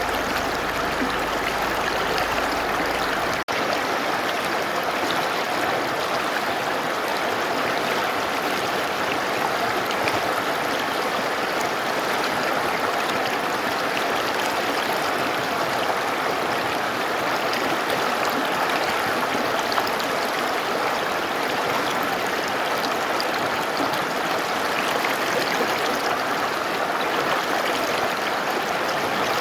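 Mountain river flowing with a steady rush of water. A brief dropout about three and a half seconds in.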